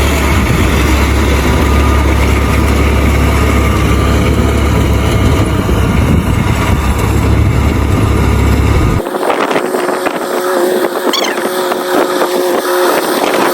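Tractor engine running steadily with a deep rumble while cutting wheat. About nine seconds in the sound changes abruptly: the low rumble drops away and a thinner, steady mechanical whine remains.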